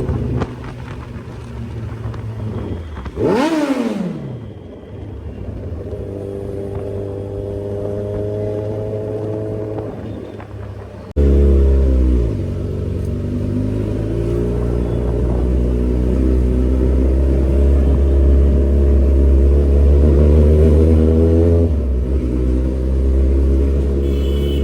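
Sport motorcycle with an aftermarket Austin Racing exhaust running, with one quick throttle blip about three seconds in that rises and falls sharply. Near the middle the sound jumps abruptly to a louder, deeper steady running.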